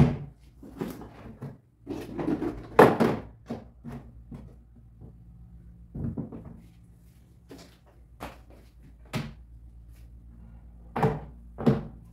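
A string of knocks, clicks and thuds from things being handled and set down and cupboard doors opening and shutting while tidying, loudest about three seconds in and twice near the end.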